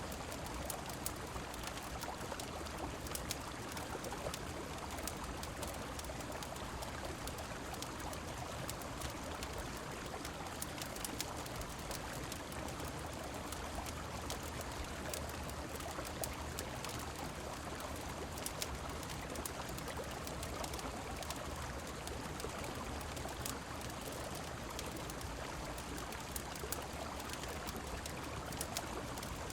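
A steady rush of flowing river water and falling rain, dotted with frequent small sharp clicks and crackles, typical of a rain, river and fireplace ambience mix.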